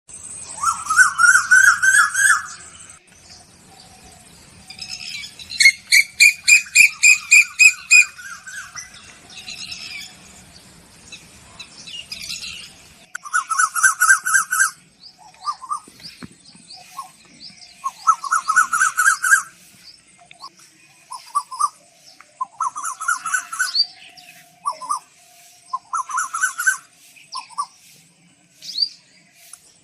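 Songbirds singing: a series of fast chirping and trilling phrases, each lasting a second or two, repeated with short pauses and varying in pitch.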